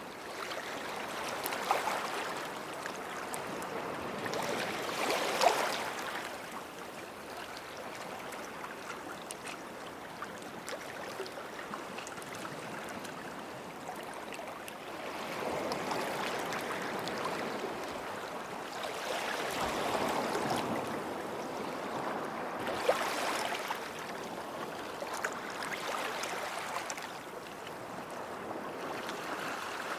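Small sea waves washing up on a sandy beach. The sound swells and fades several times, each surge lasting a few seconds, with a few brief louder splashes.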